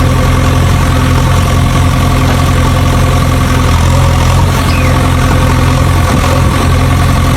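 An engine idling steadily, a low even running sound that holds the same speed throughout.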